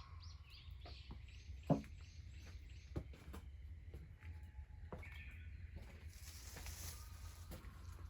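A bird calling outdoors in a quick run of high, repeated notes over the first couple of seconds. Scattered light clicks come through, with one sharp knock just under two seconds in, over a steady low rumble.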